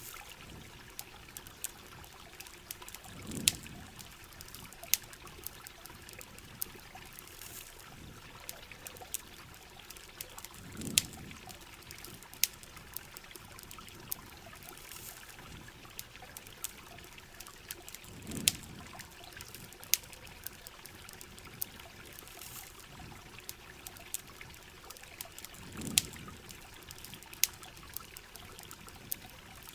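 Rain and trickling water in a steady hiss, with a campfire crackling: sharp pops scattered irregularly throughout. A soft low thump comes about every seven and a half seconds, four times in all.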